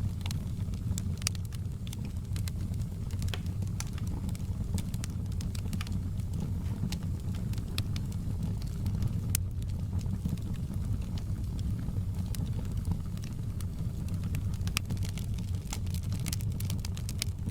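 Wood fire crackling in a fireplace: irregular sharp pops and snaps over a steady low rumble, with one louder pop about nine seconds in.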